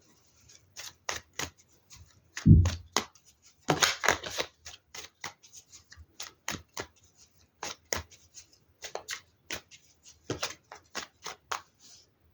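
Tarot cards being shuffled and handled: a long run of sharp flicks and taps, with a heavier thump about two and a half seconds in.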